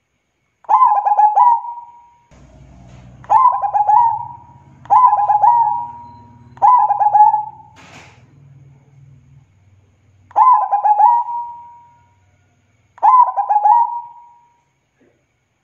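Zebra dove (perkutut) singing: six cooing phrases, each a quick run of short notes ending in a drawn-out note. A faint low hum sits underneath through the middle.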